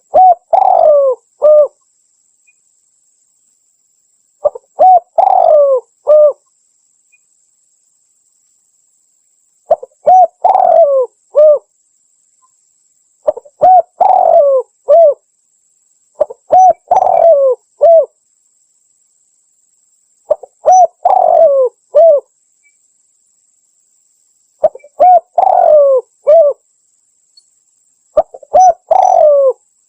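Spotted dove (tekukur) cooing: a loud, clear phrase of three or four coos, repeated eight times about every three to four seconds with dead silence between.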